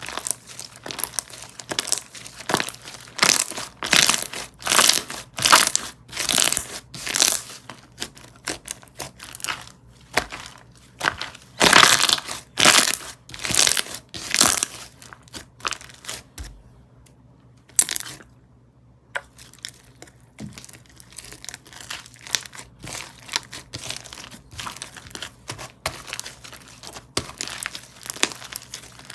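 Crispy Fries slime being squeezed and pressed by hand, giving irregular crackling, crinkly crunches that come in bursts. There is a brief lull past the middle before smaller crackles resume.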